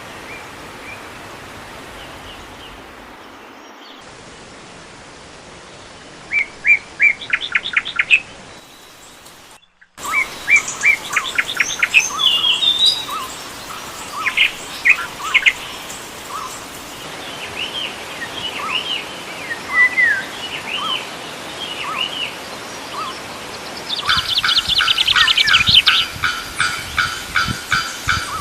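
Several birds calling and singing over a steady hiss of background noise. About six seconds in there is a quick run of repeated chirps; after a brief cut-out, many short whistled and chirped calls of different kinds follow. A dense, louder chorus of rapidly repeated notes enters near the end.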